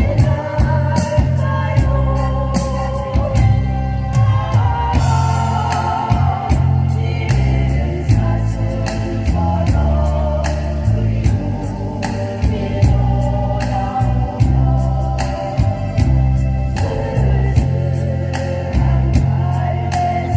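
A small vocal ensemble singing a Korean ballad in parts over an accompaniment with a heavy bass line and a steady, regular beat.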